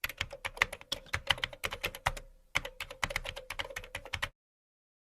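Rapid typing on a computer keyboard: a quick clatter of keystrokes with a short pause about two seconds in, cutting off abruptly a little over four seconds in.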